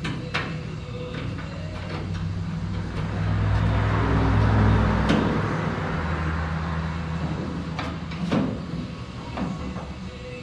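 A low mechanical drone that swells to its loudest about four to five seconds in and then eases off, with a few sharp clicks and knocks.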